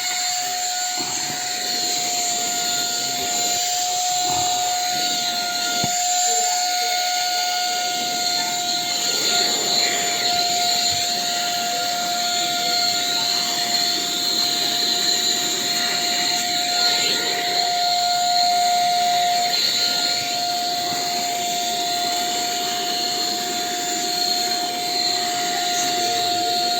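Cordless handheld vacuum cleaner running: a steady high motor whine over a constant rush of air.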